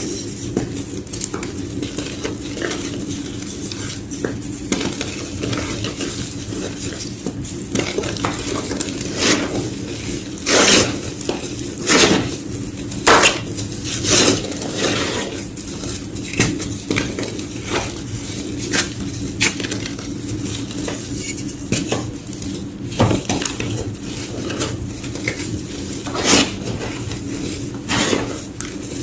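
Soft, powdery white gym chalk being crushed and crumbled, giving irregular crunches and crackles, with several louder, sharper snaps in the middle of the stretch. A steady low hum runs underneath.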